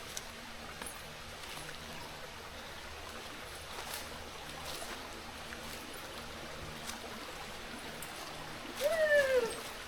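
Jungle stream running over rocks, a steady rush of water. Near the end comes a short, louder call that rises and then falls in pitch.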